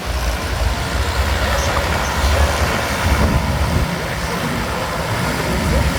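Aircraft noise: a steady rushing roar with a deep rumble underneath.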